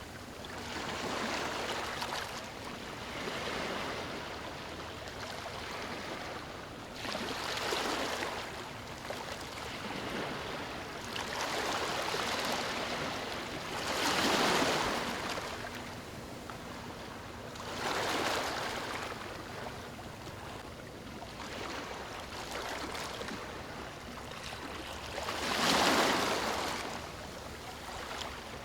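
Ocean waves breaking on a beach: a steady wash of surf with a wave crashing every three to four seconds, the loudest about halfway and again near the end.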